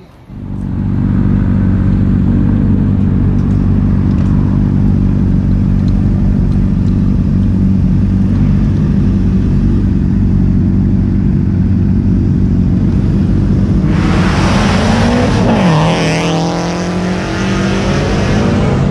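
Honda CBR sport bike riding, with steady engine drone and wind rumble heard on board. Near the end it gets louder for a couple of seconds as the engine pitch dips and then climbs again.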